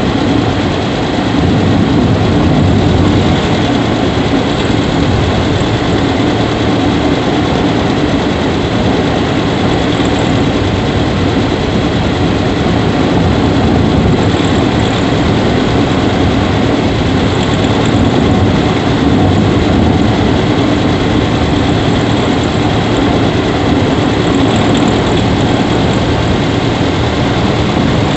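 Subaru Levorg 1.6GT-S's 1.6-litre turbocharged flat-four running steadily at idle, with a faint short squeak ('kyuri') coming every few seconds: the unexplained abnormal noise from the engine bay that the owner is trying to capture.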